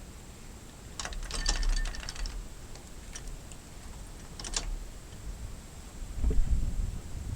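Two bursts of rapid light clicking and rattling, the first about a second in and a shorter one in the middle, then a low thump near the end.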